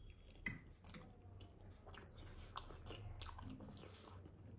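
Close-miked chewing of a steamed momo dumpling: faint, irregular wet mouth clicks and smacks.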